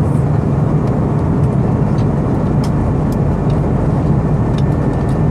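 Steady cabin roar of an Airbus A319 in flight on final descent, from engine and airflow noise and heaviest in the low range, with a few faint clicks.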